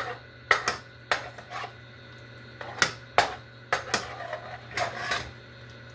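A spoon stirring ground chicken in a saucepan, knocking and scraping against the pan in about a dozen irregular clatters.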